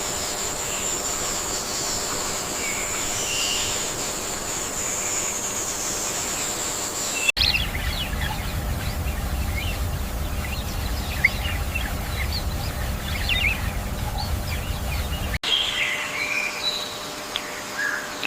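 Outdoor wildlife ambience of many short bird chirps, in three spliced segments. The first carries a steady high-pitched whine, the middle sits over a low rumble, and the last is chirps alone.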